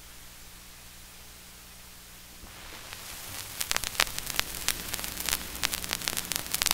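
Faint hiss with a steady mains hum, then about two and a half seconds in the crackle and scattered pops of a vinyl record's lead-in groove come up and grow louder toward the end.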